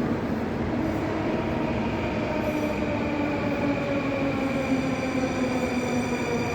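Moscow metro train running past with the rumble of its wheels and a whine from its electric motors that slowly falls in pitch as the train slows. A higher whine joins about four and a half seconds in.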